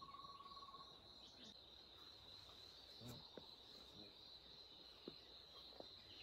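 Faint, steady, high-pitched insect chirring, one unbroken tone, with a few soft taps.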